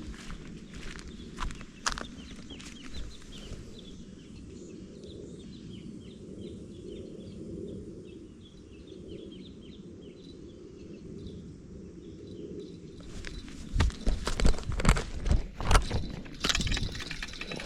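Fowl calling, with many small high chirps of birds over a low murmur. About thirteen seconds in, a run of loud knocks and thumps lasts several seconds.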